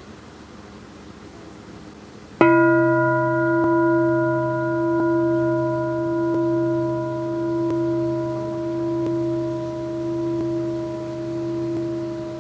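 Crystal singing bowl struck once about two seconds in, then ringing on with several clear, steady tones and a slow wavering swell in loudness.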